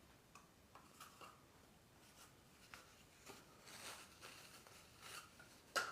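Faint scattered rustles and light taps of a paintbrush being dabbed and wiped dry on a cloth or paper towel, with one sharper tap near the end.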